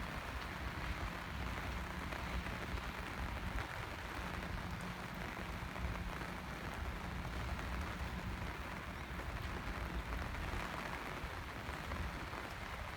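Steady rain falling and pattering on surfaces, with a low steady hum underneath that is strongest in the middle.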